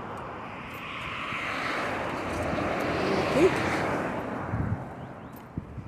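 A motor vehicle passing on the road: tyre and engine noise swells to a peak and then fades away.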